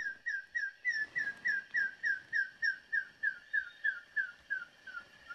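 A regular series of about twenty short whistled notes, each sliding down in pitch, about three and a half a second, dropping slightly and fading near the end: a call sounded to draw in a green-breasted pitta.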